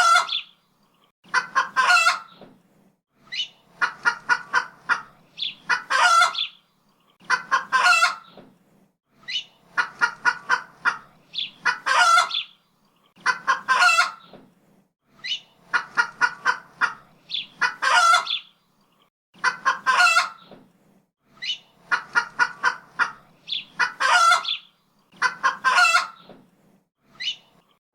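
Domestic hen cackling over and over: each phrase is a few quick clucks ending in one longer drawn-out call, repeated about once every two seconds.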